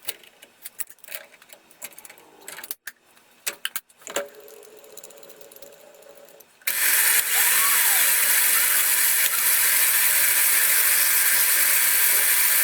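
Clicks and knocks of tool handling, then a little over halfway in a milling machine's spindle starts and runs steadily with a loud, even hiss, as the end mill is touched off on the workpiece.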